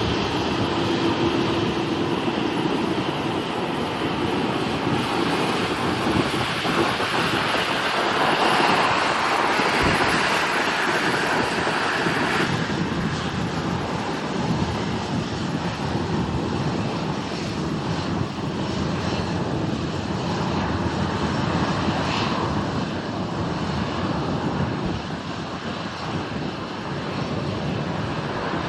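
Airliner's engines running, a loud continuous rush that swells about a third of the way through and then eases a little.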